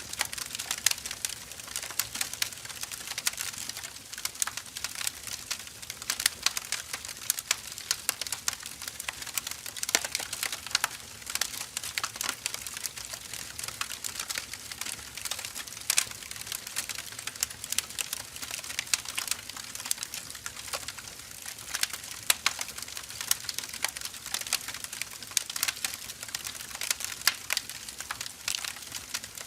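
Firewood burning, with dense, irregular crackles and pops over a soft hiss.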